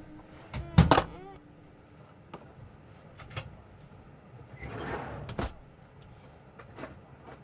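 A loud double knock about a second in, then a scraping rustle ending in a sharp click about five seconds in, with a few smaller clicks and taps around them.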